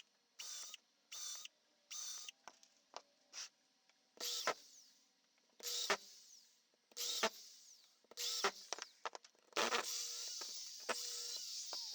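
A small handheld power tool's motor whirring in short bursts, several in quick succession at first and then more spread out, with clicks and knocks of small metal parts being handled between them. Near the end it runs longer and steadier.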